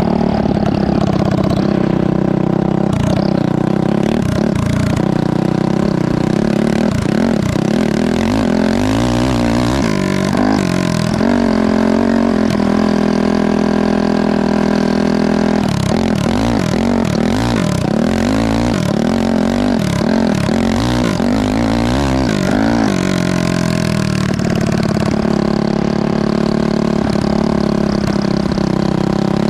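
Honda CRF450 single-cylinder four-stroke engine in a go-kart, running and revving up and down again and again. It holds a steady pitch for a few seconds near the middle.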